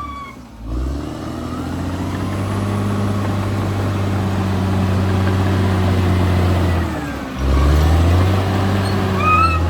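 Caterpillar D6R XL bulldozer's diesel engine revving up and running steadily under load. Around seven seconds in it dips briefly, then picks up again.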